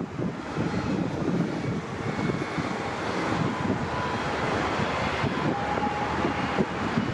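Jet airliner engines running, a steady rush with faint high whine tones, over wind buffeting the microphone.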